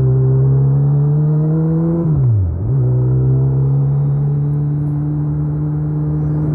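2019 Suzuki Hayabusa's inline-four engine running under way. The revs climb slowly, then about two seconds in they dip sharply and pick up again a little lower, as with a gear change, and hold steady after that. Wind and road noise lie under the engine.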